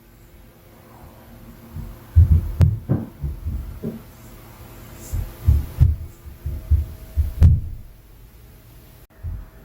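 Impact noise from the flat upstairs carried through the ceiling: dull, low thuds in irregular runs, starting about two seconds in and again from about five to seven and a half seconds, over a faint steady hum.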